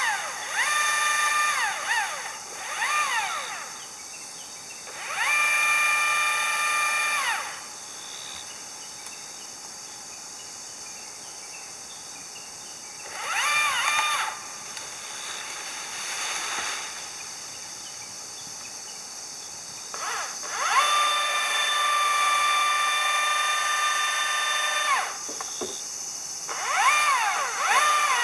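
Electric power tool motor repeatedly spinning up, running at a steady pitch and winding down as the trigger is pulled and released: short quick pulses at the start and end, and longer steady runs of about two and four seconds in between.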